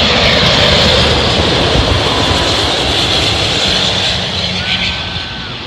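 Air France Airbus A350's Rolls-Royce Trent XWB jet engines passing close by on arrival, a loud rushing noise that fades away over the last second or so.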